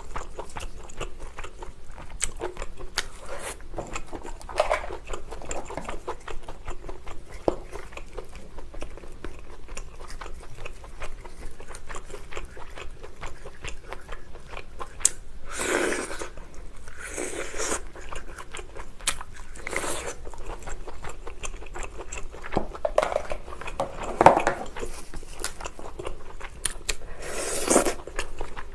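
Eating giant lobster: steady chewing and small crunches, with a handful of louder crunches in the second half.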